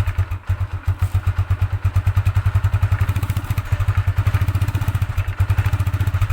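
Motorcycle engine idling steadily, a quick even putter from the exhaust.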